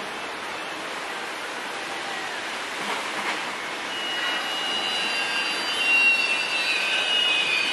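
Regional passenger train moving slowly along the platform, a steady rail rumble. About halfway through, high-pitched wheel squeal sets in and grows louder.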